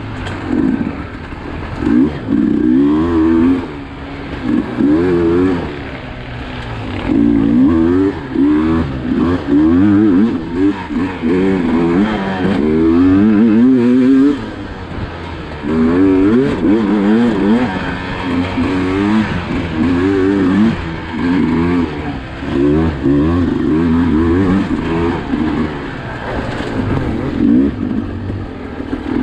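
Sherco SE 300 two-stroke enduro motorcycle engine revving up and down over and over as the throttle is opened and shut, with a few brief lulls.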